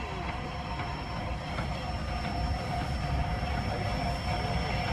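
A heritage railway train running slowly past, a steady low rumble that grows gradually louder.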